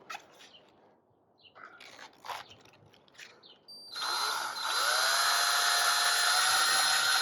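A few light knocks and clicks of wood and tools being handled, then about four seconds in a power drill starts, whining up in pitch and running steadily as it drives a screw into the wood.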